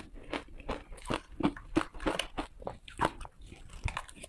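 Teeth biting into hard ice close to the microphone: a quick, uneven run of sharp crunches, about three a second.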